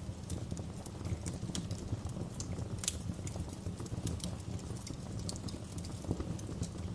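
Wood fire crackling in a fireplace: a steady low rumble of the burning logs with irregular sharp crackles and pops, one stronger pop about three seconds in.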